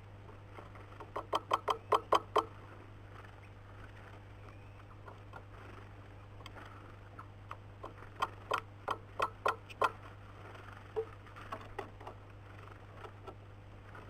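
A bird pecking at a wooden feeder: two quick runs of sharp taps, about six a second, one starting about a second in and another around eight seconds in, with scattered single taps between.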